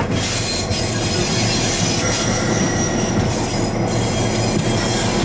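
Diesel locomotive running, a steady engine drone under continuous rail noise, with a thin high wheel squeal for a second or so in the middle.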